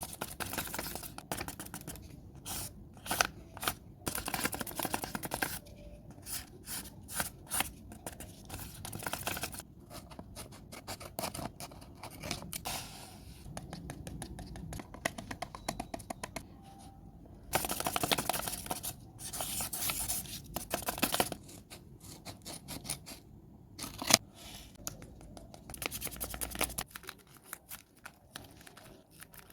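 Scissors snipping and cutting through paper in quick, repeated snips, with paper rustling and scraping in between.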